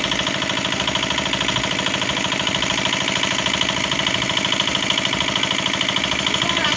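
A small engine running steadily, with a fast, even pulse that does not change.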